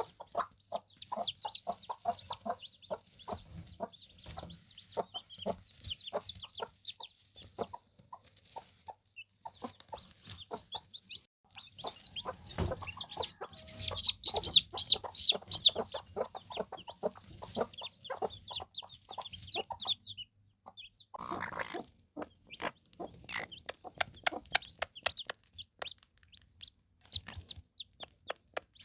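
Mother hens clucking in short, low, repeated notes while baby chicks peep in high, quick cheeps. The loudest run of chick peeping comes about halfway through.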